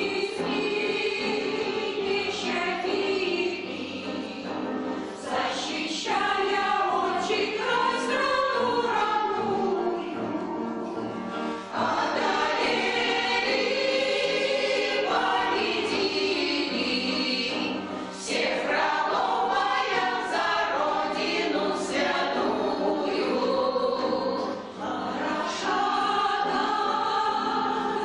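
A veterans' amateur choir singing a song in Russian, in long sustained phrases with brief breaks between them.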